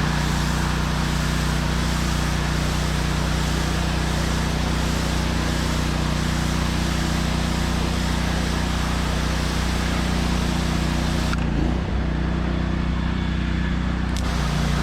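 Gas-engine pressure washer running steadily under the hiss of its high-pressure water spray. The highest part of the hiss drops out for about three seconds near the end.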